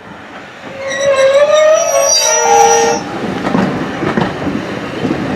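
A train sounds a loud warning note for about two seconds, gliding slightly upward and then turning into a two-note chord before cutting off. The train then runs by with a steady rumble and clatter.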